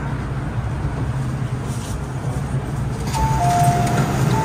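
Steady low hum of an MTR M-Train. About three seconds in, a two-note electronic chime sounds, high note then low, and it starts to repeat near the end.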